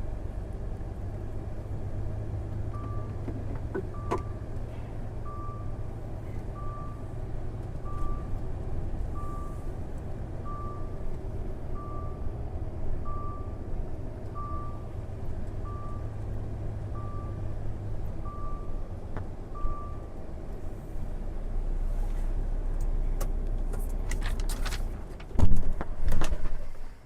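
Gas-powered truck engine running steadily with a low rumble. Over it an electronic warning beeper sounds one even tone about fourteen times, roughly once every second and a bit, and stops about two-thirds of the way through. Two loud knocks come near the end.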